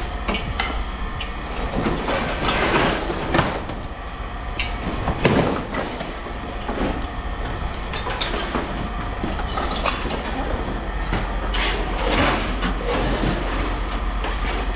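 Pieces of scrap metal clanking and rattling as they are handled and tossed onto a pile, several sharp clanks spread through, over a steady low hum.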